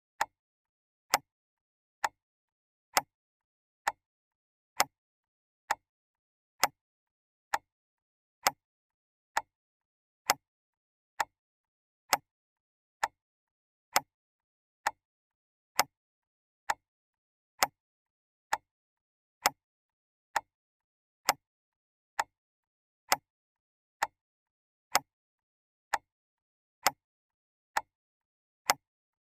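Clock ticking steadily: evenly spaced sharp ticks, a little more than one a second, with silence between them.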